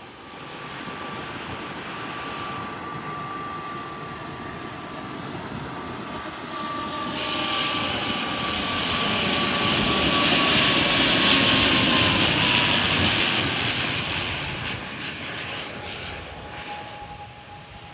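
Jet airliner passing low overhead: its engine noise grows to a peak about eleven seconds in and then fades, with a high whine that drops in pitch as it goes by.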